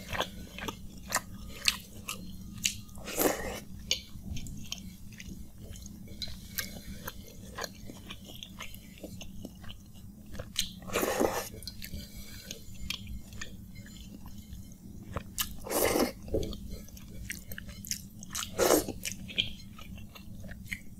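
Close-miked chewing and wet mouth smacks of a person eating panta bhat, water-soaked rice, by hand: many short clicks and smacks, with four louder, longer mouth sounds spread through.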